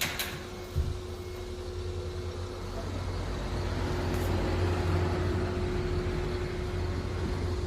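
Lexus RX400h hybrid SUV: a click and a thump, then a low steady hum that slowly grows louder, with a thin high whine running throughout.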